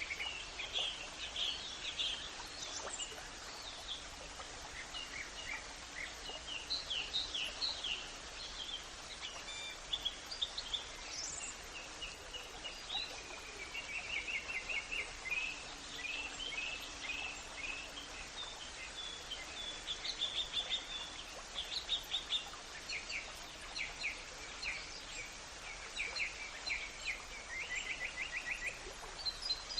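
Several small birds chirping and singing in overlapping short calls and rapid trills over a steady background hiss, with a quick rising whistle about eleven seconds in.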